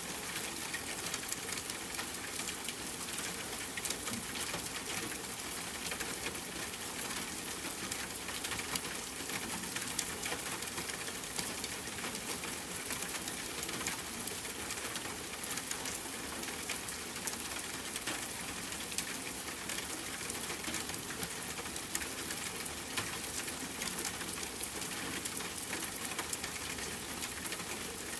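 Steady rain falling: a dense, even hiss with many small drops tapping and the odd louder tick.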